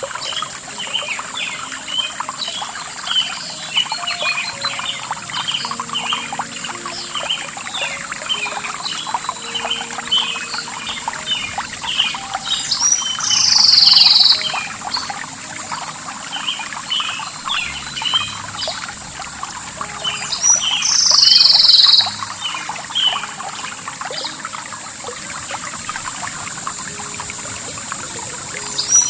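Forest birds chirping busily, with one loud bird call about a second and a half long, repeated roughly every seven to eight seconds, three times. A steady high, thin tone runs underneath.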